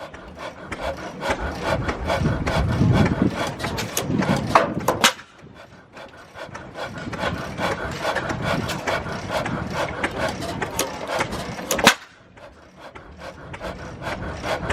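Hit-and-miss stationary engine running: a fast rhythmic clatter of clicks from its moving parts, broken by a few sharp firing bangs, two close together near the middle and one near the end.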